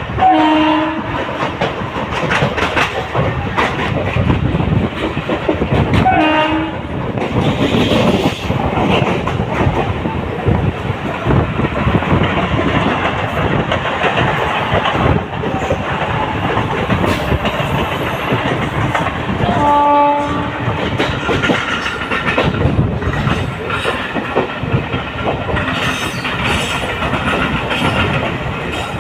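Trains running past close by, wheels clattering steadily over the rail joints. Short horn blasts sound at the start, about six seconds in, and again about twenty seconds in.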